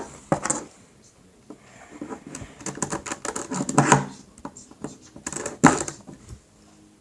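Plastic Rubik's cube pieces clicking and clattering in a series of irregular small taps as they are handled and fitted back together.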